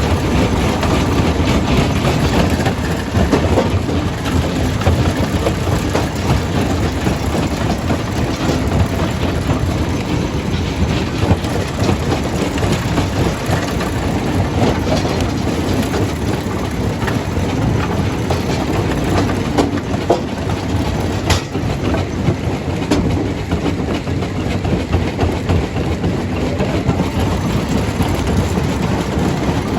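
Primary jaw crusher running under load, a steady heavy rumble full of rattling and knocking as stone is crushed, with a few sharper clacks about two-thirds of the way through.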